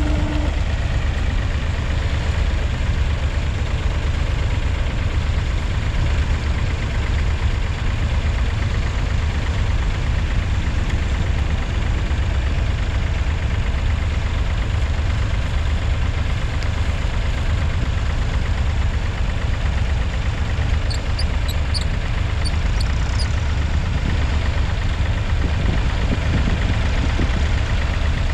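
A David Brown 780's 2.7-litre three-cylinder diesel engine running steadily, a deep, even chug.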